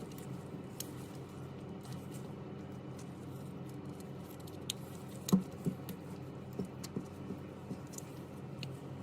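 A handful of light clicks and taps from small hard objects being handled, the sharpest about five seconds in, over a steady low hum.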